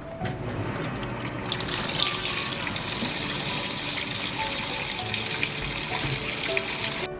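Water running into the tub of a Heran HWM-1152 top-load washing machine as it fills: a steady rush that grows louder about a second and a half in and cuts off suddenly near the end.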